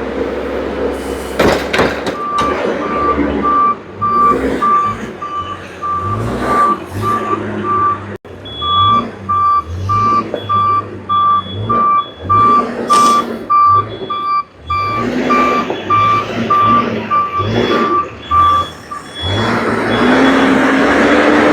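Reversing alarm of a snow-removal vehicle beeping about twice a second over its diesel engine running. Near the end the beeping stops and the engine gets louder, its pitch rising.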